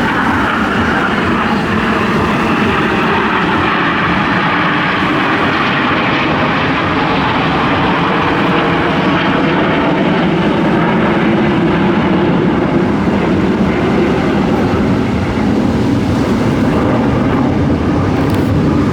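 Display jet aircraft flying past, a loud, steady jet engine rush with no breaks.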